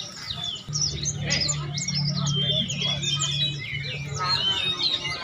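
Many caged songbirds chirping and calling at once: a dense, overlapping chatter of quick rising and falling calls. A low steady hum runs underneath from about a second in.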